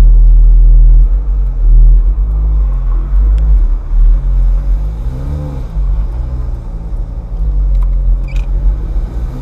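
Ferrari F430's V8 engine running at low revs while the car drives slowly, its note rising and falling briefly about five seconds in.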